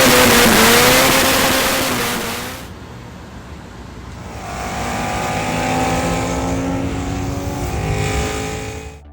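Car engine at high revs, with a loud rushing noise over it for the first couple of seconds. It then falls away and climbs again, and cuts off abruptly at the end.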